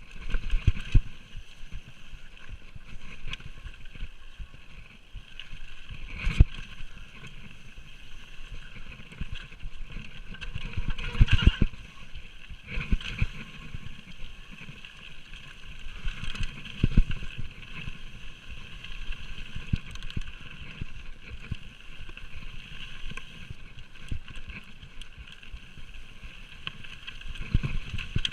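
Orange Five 26-inch full-suspension mountain bike riding a rough trail: tyres rumbling over dirt with rattles and knocks from the bike, the hardest jolts about six, eleven and seventeen seconds in, over a steady high buzz.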